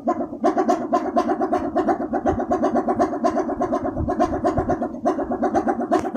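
Balinese pindekan, a wind-driven wooden propeller noisemaker, spinning in the wind and giving a fast, even, pitched throbbing hum. It grows louder about half a second in.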